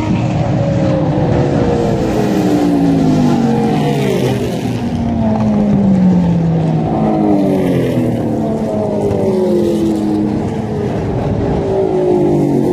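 Group A and C touring race cars passing at speed one after another, each engine note falling in pitch as it goes by.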